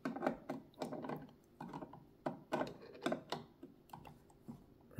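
A screwdriver driving small screws back into a sewing machine's metal stitch plate: irregular light clicks and scrapes of metal on metal.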